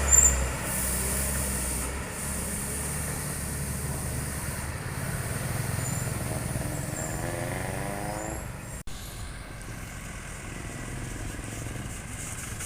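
A heavy truck engine running steadily, with a short rising whine about seven seconds in and a sudden brief break in the sound just after.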